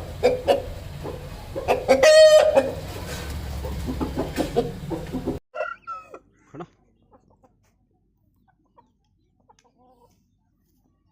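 Aseel chickens clucking, with one short, loud crow from a rooster about two seconds in. After about five seconds the sound cuts off abruptly, leaving a few faint clucks and then near silence.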